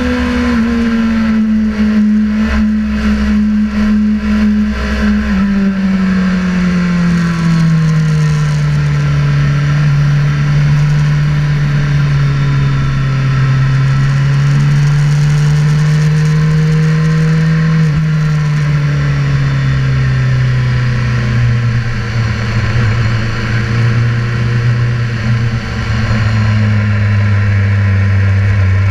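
Sportbike engine running at low to part throttle, its pitch falling steadily over the first several seconds, wavering at a lower steady speed, then dropping again near the end as it eases toward idle.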